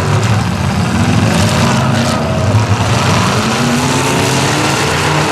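Several demolition derby cars' engines revving up and down through loud exhausts, one climbing steadily in revs over about two seconds near the middle.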